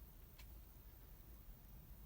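Near silence: a faint low rumble with a single faint tick about half a second in.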